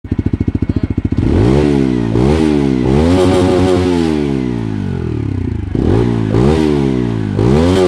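TVS Apache RTR 160 4V motorcycle's single-cylinder engine putting at idle for about a second, then revved up and back down several times, with a longer rev in the middle.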